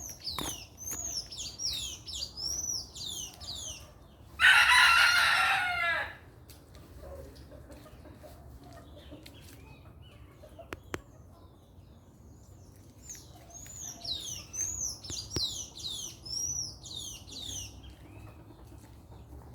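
A rooster crows once, loudly, about four seconds in, a call of about a second and a half. Small birds sing quick runs of high, arching notes before it and again later.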